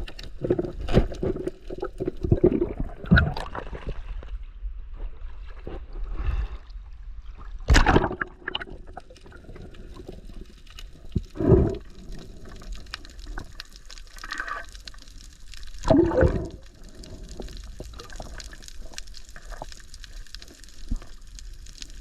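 Sea water gurgling and sloshing around the camera, with a handful of louder surges every few seconds.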